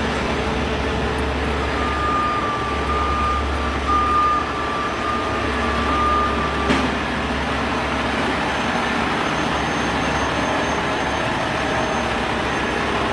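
Heavy truck engines running steadily. A reversing alarm sounds for several seconds in the first half, and a single sharp click comes about halfway through.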